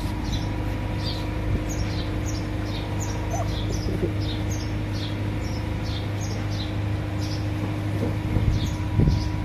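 A small bird chirping over and over, short falling chirps about twice a second, over a steady low machine hum.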